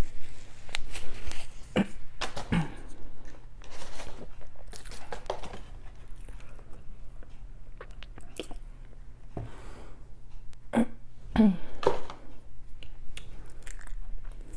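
Close-miked chewing and biting of food, with irregular mouth clicks and smacks.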